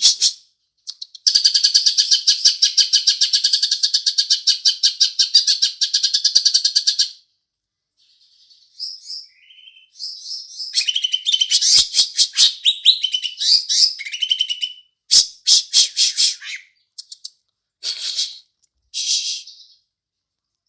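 Green leafbird (cucak ijo) singing with mimicked Eurasian tree sparrow chatter. A fast, high, buzzing trill lasts about six seconds; after a pause come bursts of rapid chattering notes and a few short phrases near the end.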